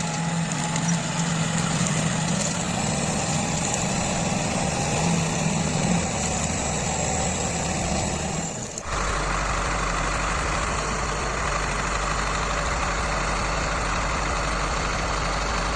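Heavy diesel machinery running steadily under load. About nine seconds in, the sound cuts abruptly to a different, steadier engine with a deep hum.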